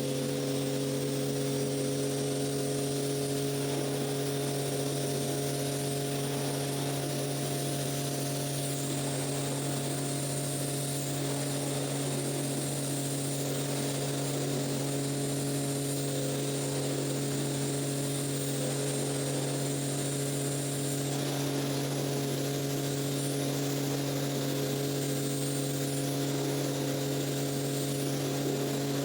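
Electric motor of a rug-cleaning machine running steadily, a constant-pitch hum with no change in speed.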